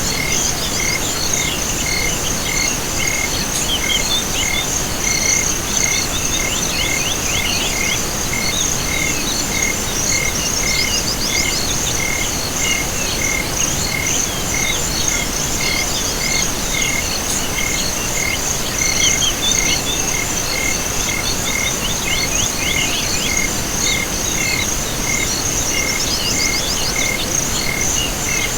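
Night chorus of insects and frogs: a steady high insect trill, an evenly repeated call a little faster than once a second, and every few seconds a cluster of quick sweeping calls.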